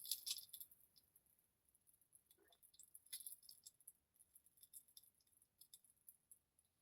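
Near silence, with faint scattered small clicks.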